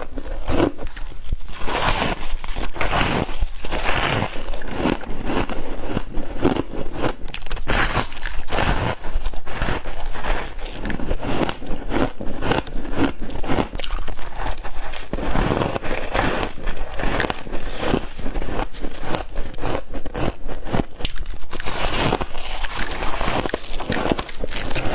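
Close-up crunching and chewing of frost in the mouth: dense, irregular crackles and crunches that run on without a break.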